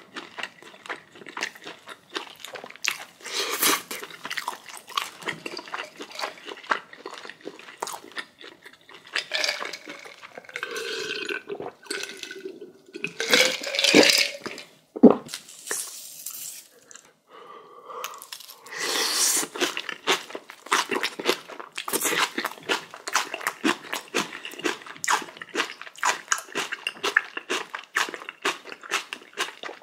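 Close-up chewing and crunching of spicy kimchi, with many quick crisp crunches. There is a louder stretch about ten to fifteen seconds in, then a short lull, then steady chewing again.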